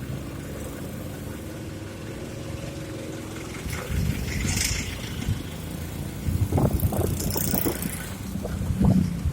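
Road traffic on a rainy street: a vehicle engine running with a steady hum, then hiss and irregular knocks over the second half.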